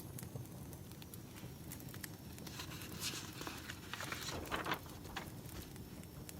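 Wood fire burning, with scattered sharp pops and crackles over a low steady rumble. A denser, louder spell of crackling and hissing comes about three to five seconds in.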